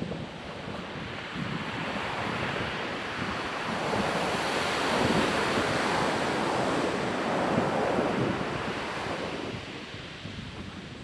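Ocean surf on a beach: a wave building to its loudest in the middle and then washing out and easing off.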